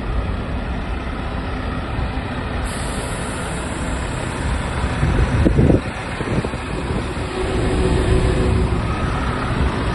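Scania K320 coach's five-cylinder diesel engine running at a steady idle, with a brief louder rustle or knock a little past the middle.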